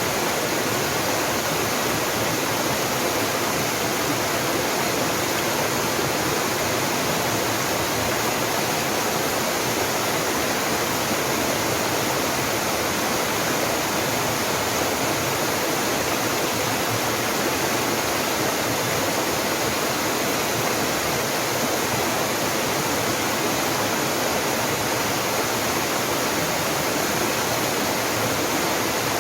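Small mountain waterfall splashing steadily, an even rush of falling water with no break.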